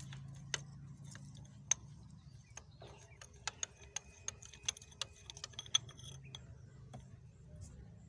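Ratchet wrench clicking as it works a spark plug out of the engine. There are a few separate sharp metal clicks, then a quicker string of ringing clicks for a few seconds.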